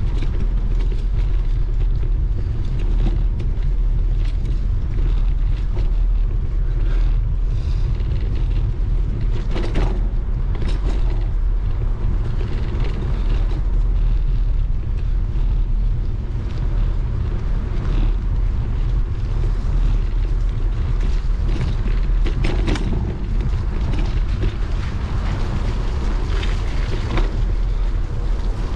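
Wind buffeting the microphone of a moving bicycle as a steady deep rumble, over the noise of the tyres on a rain-wet cycle path, with a few brief rattles now and then.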